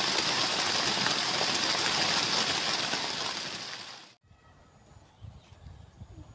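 Heavy rain falling on a tent, a steady dense hiss that fades out about four seconds in. After it comes quiet outdoor ambience with a faint thin high whine and a few soft low thumps.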